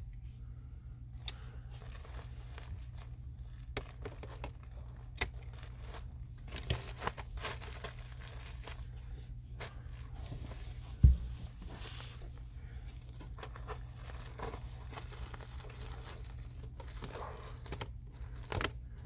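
Flexible HVAC duct and its fittings being handled: crinkling and rustling with scattered clicks, one loud knock about eleven seconds in, over a steady low hum.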